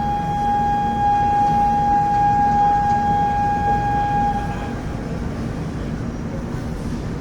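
Indian Railways locomotive horn held in one long steady blast that cuts off about four and a half seconds in, over the low rumble of the train.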